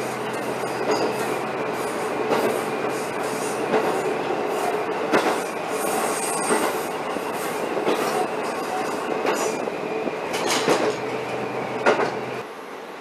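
Diesel railcar running along the track, heard from inside the carriage: steady running noise with a hum and a click of the wheels over rail joints about every second or so. Near the end the low hum drops away and the sound gets quieter.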